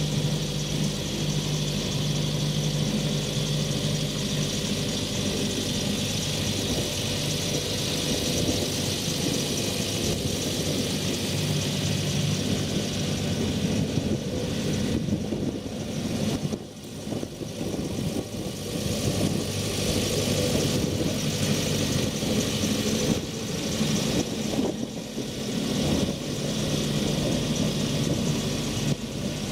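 John Deere 4045HF four-cylinder turbocharged diesel of a 60 kVA generator set running at a steady speed, with a brief dip in loudness about halfway through.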